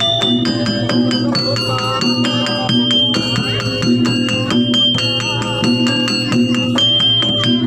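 Live jaranan pegon music: a dense, steady percussion beat with bright held melodic notes above it that step to a new pitch about once a second.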